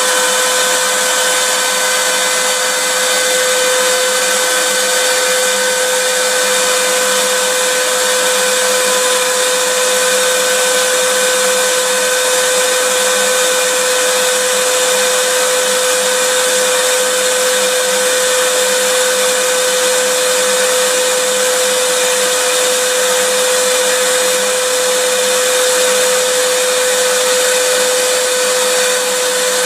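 Vacuum cleaner motor running steadily, a constant rushing hiss with a steady whine in it, unchanging throughout.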